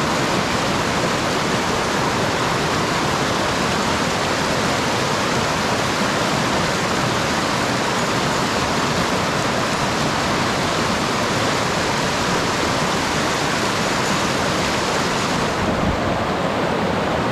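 Mountain stream rushing in a steady, loud hiss, running high after rain: the anglers think the water has risen and the current is strong. The sound turns a little duller near the end.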